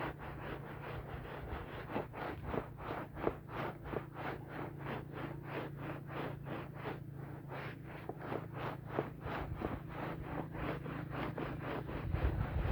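A wet rug being scrubbed by hand in quick, even strokes, about three or four a second, over a steady low hum.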